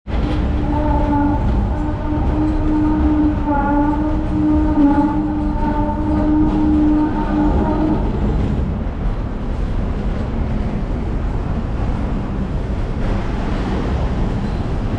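Hong Kong tram running on street rails: a steady humming tone over a low rumble for about the first eight seconds, then only the low rumble of the running tram.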